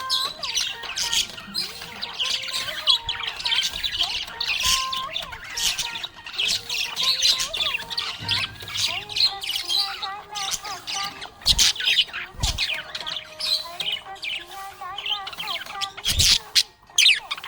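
Budgerigar chirping and chattering in a continuous stream of quick chirps and warbles, with a few short thumps in the second half.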